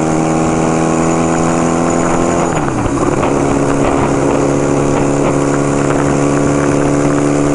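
1975 Kawasaki KZ400 air-cooled parallel-twin engine running steadily under way, with wind rushing past. The revs dip briefly about two and a half seconds in, then hold steady again.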